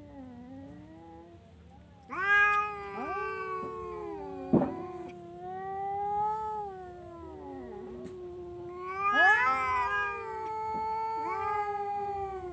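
A domestic cat yowling in long, drawn-out calls that rise and fall in pitch with hardly a pause, loudest twice. A single sharp click cuts in partway through.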